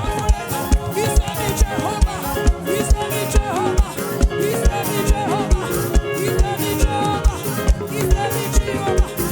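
Live gospel praise band music with a steady kick-drum beat, about two to three strokes a second, under melodic lines and shaker-like percussion.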